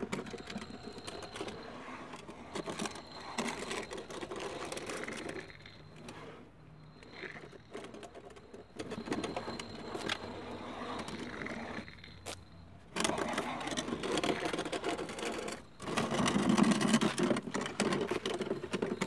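Old wooden nagamochi chest dragged along an asphalt road, a rough continuous scraping and rattling with small knocks. A faint steady high tone runs under it for the first two-thirds, and the scraping gets abruptly louder twice near the end.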